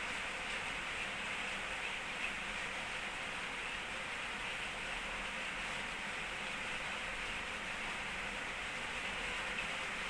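Steady hiss with no distinct events, and one faint click about two seconds in.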